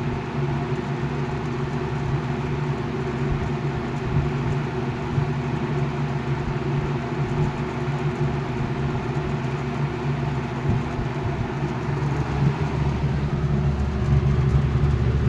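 1980 Galaxy 3713 box fan's shaded-pole motor running on medium speed: a steady motor hum with the rush of air from the blades, growing a little louder near the end.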